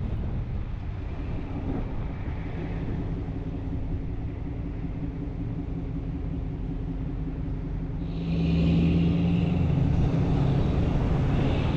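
Steady engine and road rumble of a vehicle cruising on the highway, growing louder about eight seconds in.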